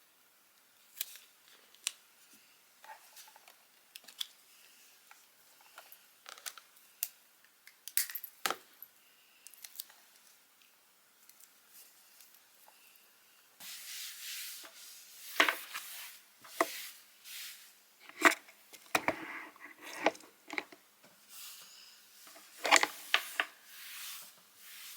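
Small objects being handled: scattered clicks and light taps, then, from about halfway, rustling and scraping with a few louder knocks.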